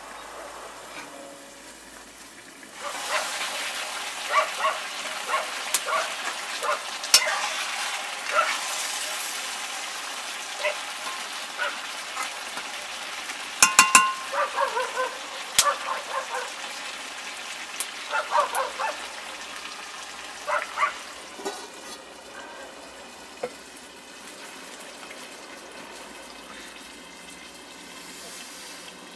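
Chicken curry frying and sizzling in a black wok over a wood fire. About three seconds in, the sizzle jumps louder, with a metal ladle scraping and clanking against the wok as the food is stirred, including a few sharp ringing knocks about halfway through; later the sizzle settles back to a lower steady hiss.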